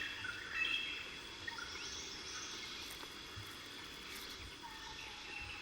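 Faint natural ambience: insects trilling steadily at a high pitch, with a few short bird chirps in the first second or so.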